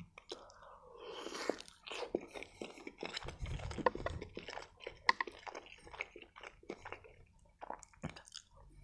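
Close-up chewing of a bite of breaded chicken Kiev: wet mouth sounds with many small clicks and crunches.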